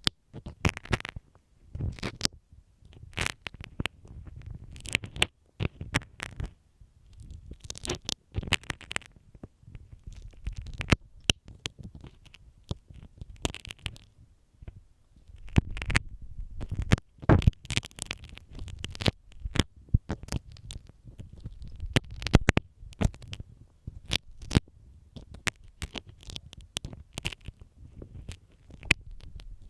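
Marking pins scratching and tapping directly on a binaural microphone's ear, giving close, irregular scratchy clicks with a low rumble beneath.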